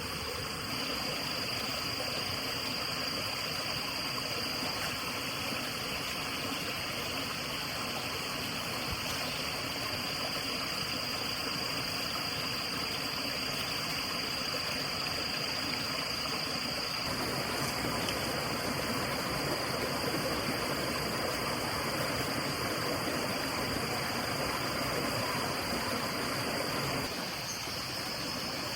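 Steady rushing of flowing water, with a thin, steady high tone running above it. The texture shifts slightly about two-thirds of the way in and again near the end.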